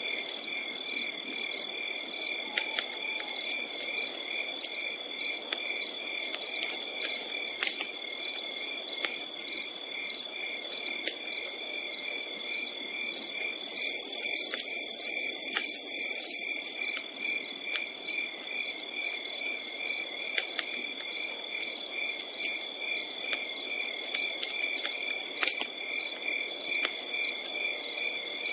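Night insects chirping in an even pulsing rhythm, about two or three pulses a second over a steady high tone, with a campfire crackling underneath in sharp scattered pops. A brief high buzz joins in a little past halfway.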